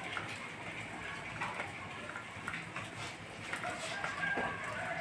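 Classroom background of children cutting and handling paper: scattered short snips and rustles, with faint children's voices.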